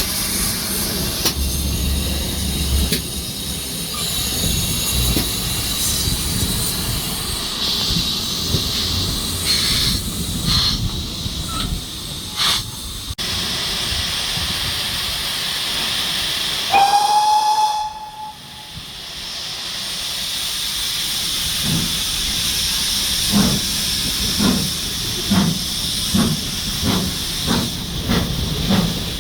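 Steam locomotive hissing steam, then giving one short whistle blast of about a second. A few seconds later it starts to move off, its exhaust beating slowly and evenly at about two chuffs a second.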